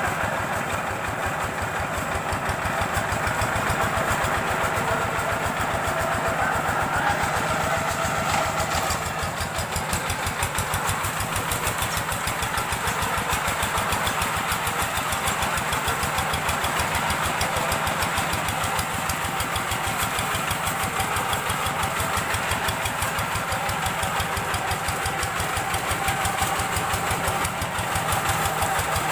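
Rice-field hand tractor's single-cylinder diesel engine running steadily at idle while it warms up, with a fast, even beat of firing strokes.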